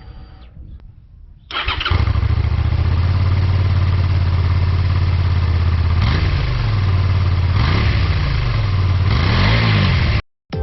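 Honda VTR250's V-twin DOHC engine starting up about a second and a half in, then idling steadily. Near the middle and toward the end the throttle is blipped three times, the revs rising and falling, the last blip the highest, before the sound cuts off suddenly.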